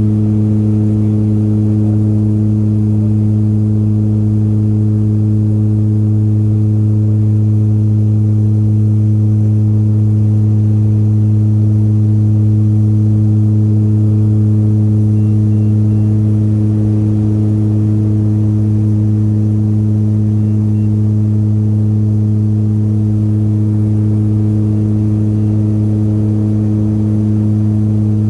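Aircraft engine in flight, a steady, loud drone: a deep, unchanging hum with evenly spaced overtones.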